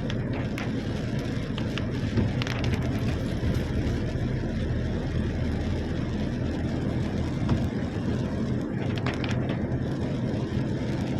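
Heavy rain pouring down: a steady, dense rush with a low rumble underneath and scattered sharp ticks of drops striking.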